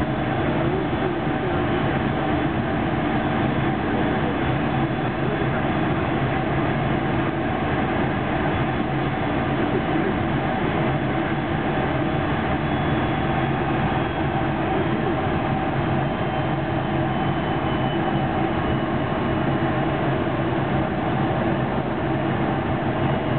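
Running noise inside a JR 373 series electric train in motion: a steady rumble of wheels on rail with a constant mechanical hum. A faint high whine slowly falls in pitch through the second half.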